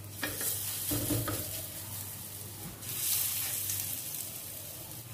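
Grated potato patties sizzling in shallow oil on a nonstick tawa, a steady hiss that grows louder about three seconds in as a fresh patty goes into the hot oil.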